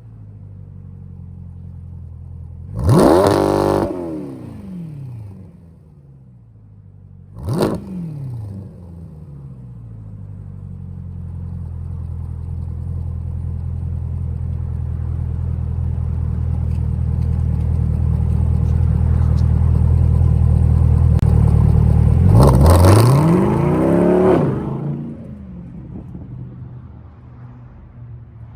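C8 Corvette's V8 revving through a prototype true-dual cat-back exhaust with two mufflers, fed by factory manifolds and catalytic converters. It idles between two quick blips, then the revs climb slowly and hold high, then a final sharp blip and a drop back to idle.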